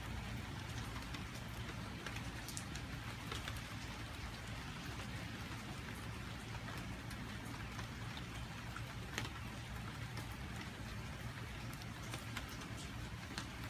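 Rain falling on a wet wooden deck: a steady hiss with single drops ticking out here and there, one sharper drop about two-thirds of the way in.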